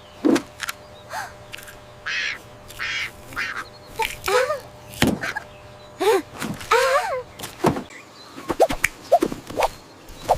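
A series of short bird squawks and caws with bending, gliding pitch. Sharp clicks and knocks come in the last few seconds.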